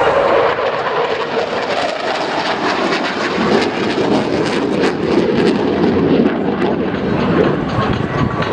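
Jet noise from a Panavia Tornado's twin RB199 turbofan engines as it flies its display: a loud, steady noise with sharp crackles through the middle seconds.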